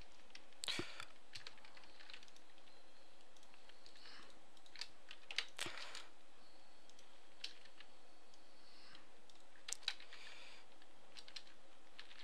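Scattered computer keyboard key presses and clicks at irregular intervals, with a few louder clicks about half a second apart near the middle and near the end, over a faint steady hiss.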